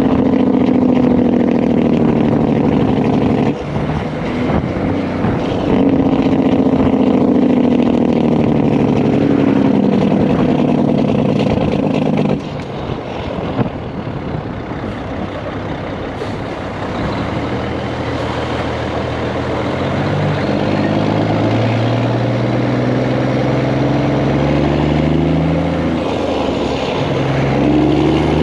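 Caterpillar C10 diesel in a Peterbilt 362 cabover, running loud through a straight exhaust pipe with the muffler removed. The engine note rises and falls as the truck pulls and eases off, drops suddenly about twelve seconds in, and then climbs again in steps.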